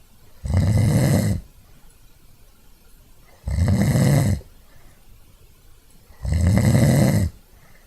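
Snoring: three loud snores, each about a second long, coming about every three seconds.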